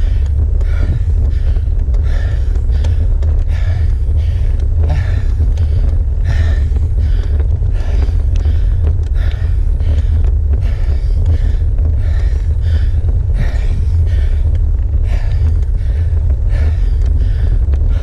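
A cyclist's heavy, rhythmic panting from hard effort on a steep climb, a breath about every two-thirds of a second, over a steady low rumble.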